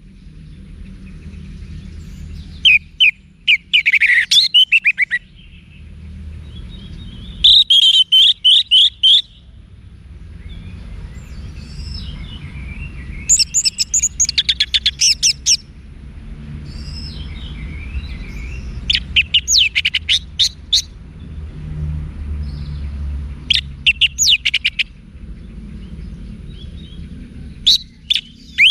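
Orange-headed thrush singing: phrases of fast, repeated high notes, each one to two seconds long, coming every few seconds over a steady low rumble.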